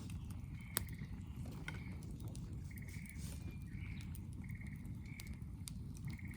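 Wood fire crackling, with scattered sharp pops, the loudest just under a second in, over a low steady rumble. Short high trilled calls from a small animal recur about every second.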